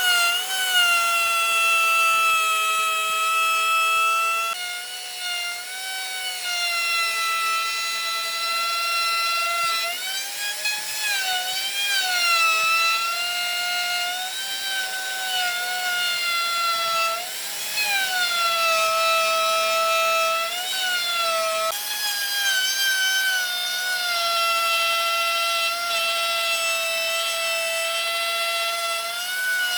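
Handheld electric power tool working wood, its motor whining at a high steady pitch that sags and recovers again and again as it bites into the timber.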